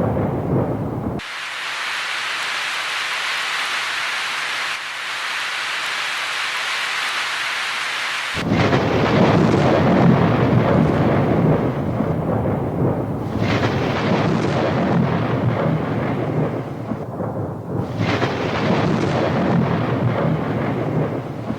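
Thunderstorm: steady rain hissing, with a deep rolling rumble of thunder underneath for most of the stretch. The sound switches abruptly about a second in to rain alone, and the rumble cuts back in about eight seconds in, like separate recordings spliced together.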